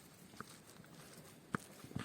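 A few light, sharp clicks and knocks, three of them spaced irregularly, over a faint steady background.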